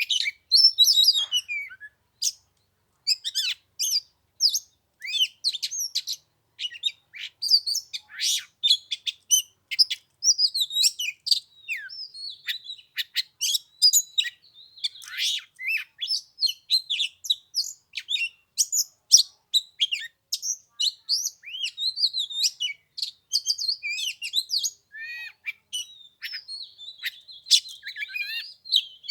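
Oriental magpie-robin singing a long, varied run of quick whistles and chirps, with short pauses between phrases.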